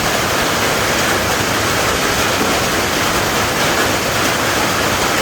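Heavy hail falling: a dense, steady rush of hailstones hitting the ground and surfaces.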